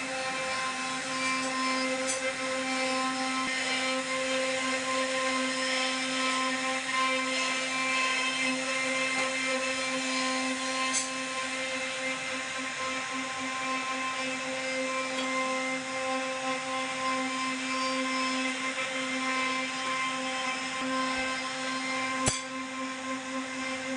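CNC router spindle carving wood, running at a steady high-pitched whine over a cutting hiss, with a sharp click near the end.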